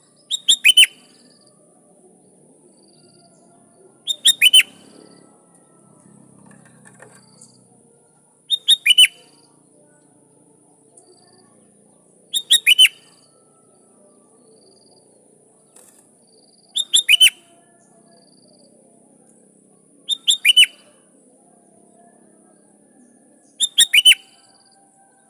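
Sooty-headed bulbul calling: a short, loud phrase of three or four quick falling notes, repeated seven times about every four seconds.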